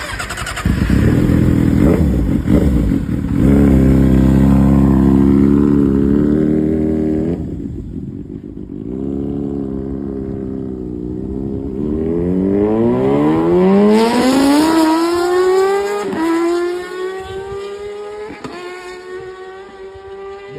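Kawasaki ZX-6R inline-four sportbike engine revving hard and accelerating. Its pitch climbs steeply through the gears, with short breaks at each upshift, and it fades away near the end.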